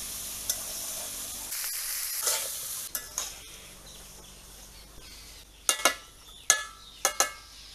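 Sliced spiny gourd sizzling in a wok while a metal spatula stirs and scrapes it. The sizzle dies down about three seconds in. Near the end the spatula strikes the wok five times in sharp, ringing metallic clanks.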